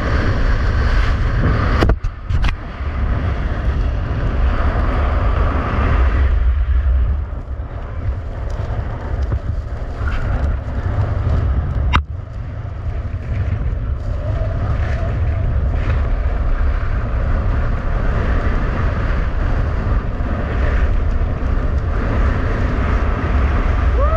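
Strong wind buffeting the microphone during a fast ski-winging run in a blizzard, over a steady rushing hiss of skis running on rough ice. A couple of sharp knocks cut through, about two seconds in and again near the middle.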